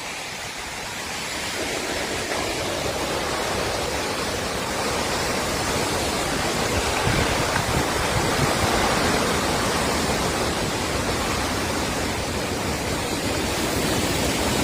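Strong thunderstorm wind rushing steadily. It builds over the first two seconds, then holds.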